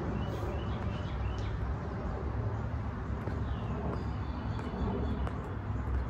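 Birds chirping: a few short chirps near the start and a falling call about three and a half seconds in, over a steady low rumble.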